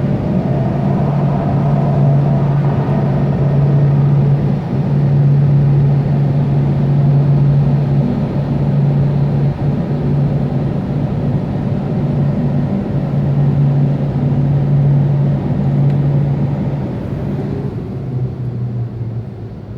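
Car wash machinery running: a steady droning hum over a broad rushing noise, easing off in the last couple of seconds.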